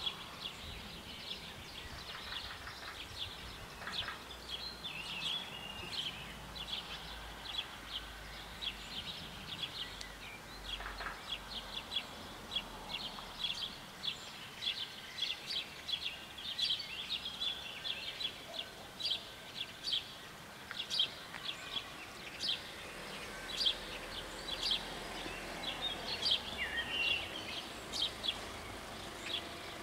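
Small birds chirping and singing in quick, irregular notes, over a faint steady outdoor background.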